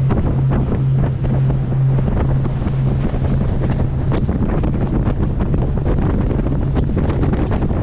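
Wind buffeting the microphone on a moving motorboat, over water rushing past and the boat's engine. The engine's steady low hum fades out about halfway through.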